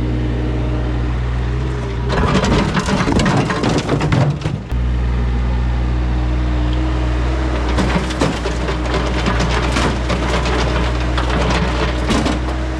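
Mini excavator's diesel engine running steadily, with two spells of loud cracking and crunching as the bucket breaks up and scrapes off the old driveway surface. The first spell comes about two seconds in and lasts a couple of seconds; the second runs from about eight seconds in almost to the end.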